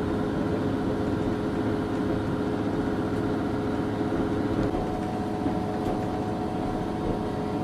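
Diesel railcar running slowly, heard from inside the carriage: a steady engine drone and rumble, with a higher steady tone joining about two-thirds of the way through.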